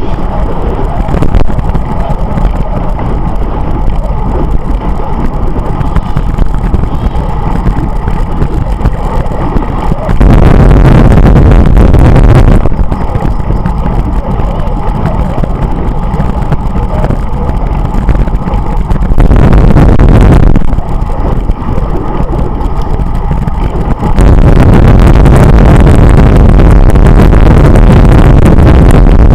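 Wind rushing over a cyclist's camera microphone with road noise while riding. It surges abruptly into heavy buffeting three times: about ten seconds in for a couple of seconds, again around twenty seconds, and from about twenty-four seconds on.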